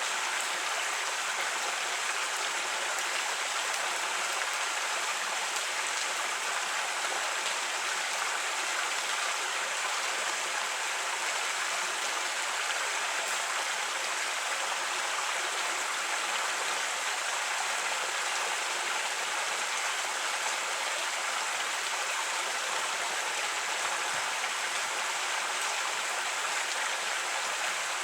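Creek water running steadily over rocks, an even rushing and babbling.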